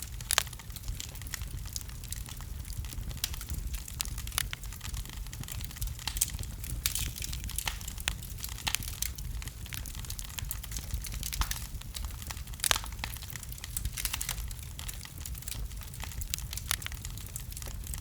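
Wood fire of burning logs in a fireplace, crackling and popping irregularly over a steady low rumble, with a few sharper pops.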